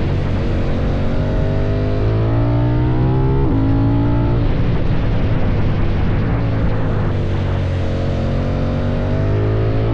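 KTM 790 Duke's parallel-twin engine through an Akrapovic exhaust, pulling up through the revs under acceleration, dropping in pitch at a gear change about three and a half seconds in, then climbing again.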